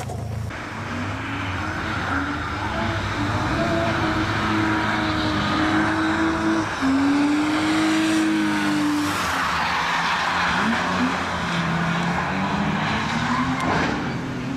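A BMW E36 3 Series sedan's engine revving up and down while the car drifts, with its tyres hissing and skidding on wet tarmac.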